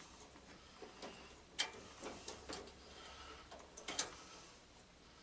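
Scattered light clicks and taps of hand tools and parts being handled during mower repair work, irregular rather than rhythmic, with the loudest two clicks close together near the end.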